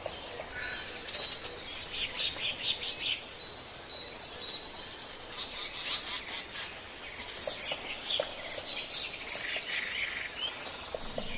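Birds chirping: clusters of short, high chirps and trills, a first group about two seconds in and more from the middle onward, over a faint steady background.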